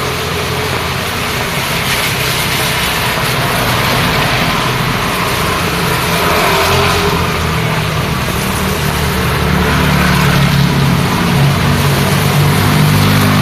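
Road traffic in rain: engines of cars and motorbikes running and passing, over a steady hiss of rain and wet road. The low engine rumble grows louder in the second half.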